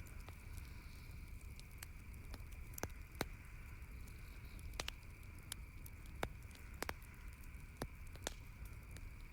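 Campfire crackling, with sharp wood pops at irregular intervals, about ten of them, the loudest about three seconds in, over a steady faint background hiss.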